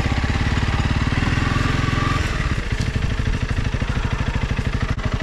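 Dual-sport motorcycle engine running with a quick, even beat. About two seconds in it eases off to a lighter, lower-load beat.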